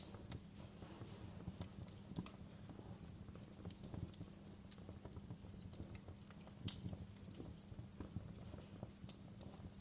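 Wood fire burning in a fireplace, crackling with irregular sharp pops and snaps over a low, steady rumble.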